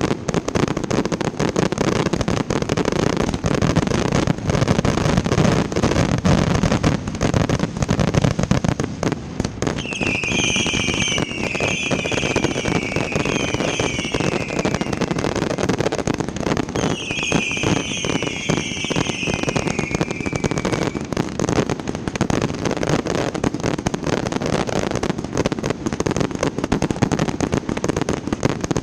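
1.4G consumer fireworks going off in a dense, continuous barrage of bangs and crackle. Two spells of shrill, falling whistles come through, about ten seconds in and again around seventeen seconds in.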